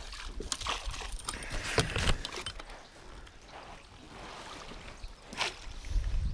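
Water splashing with knocks and rattles against a plastic fishing kayak as a hooked smallmouth bass is landed, with a strong knock a little before the end.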